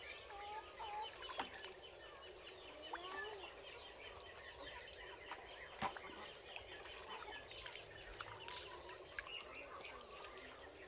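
Faint bird calls: many short chirps and clucks overlapping, with a couple of sharp clicks about a second and a half in and again near six seconds.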